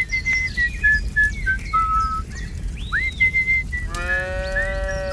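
A cow mooing once, one long call starting about four seconds in. Before it come high, thin whistle-like notes that step down in pitch.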